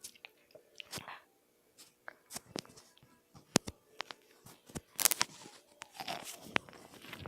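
Crunchy food being bitten and chewed: scattered sharp crackles and clicks, with a louder crunching burst about five seconds in.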